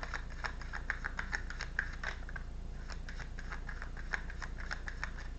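Tarot cards being handled and shuffled to draw a clarifier card: many quick, irregular card clicks and snaps, several a second, over a low steady hum.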